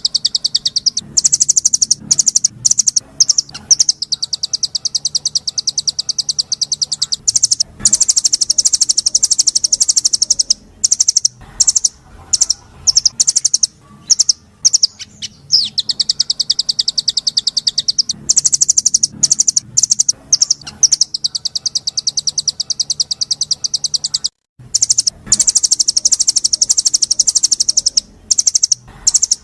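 Recorded small songbird song: long, very rapid, high-pitched trills, several seconds each, broken up by short sharp chirps. The same trill phrases come round again and again, as in a looped tutoring recording.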